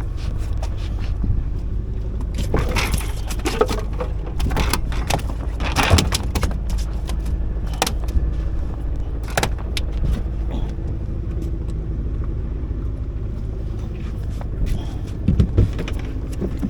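Fishing boat's engine idling steadily, with scattered knocks and rattles of gear in the boat.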